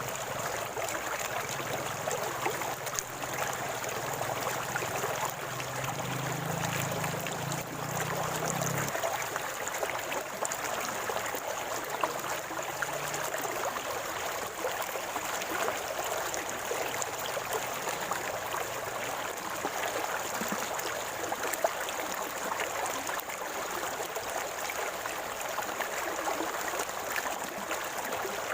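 Small river or creek water gurgling and trickling steadily over rocks.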